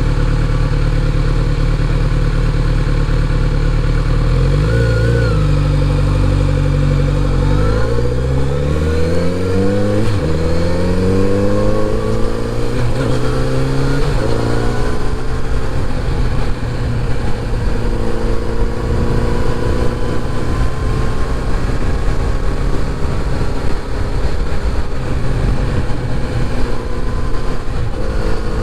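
Kawasaki Z900RS inline-four engine running steadily at low revs, then revving up through several gears from about seven seconds in, each rise in pitch ending in a shift. It then settles into steady cruising with wind rush.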